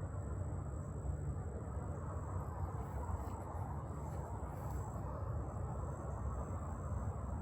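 An insect, likely a cricket, trilling in one continuous high-pitched tone over a steady low noise.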